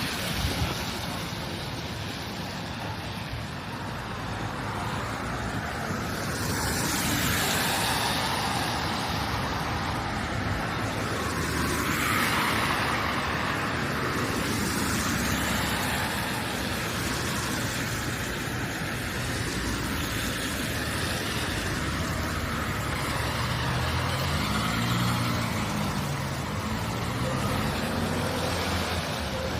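Street traffic: cars and other vehicles passing with a steady noise of engines and tyres, swelling as vehicles go by. Near the end an engine note rises and falls.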